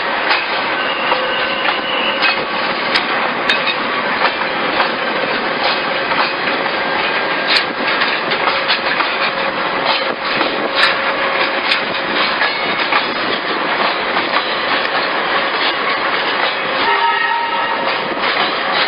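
Metre-gauge train running with wheels clattering and clicking over the rails. A horn sounds near the end.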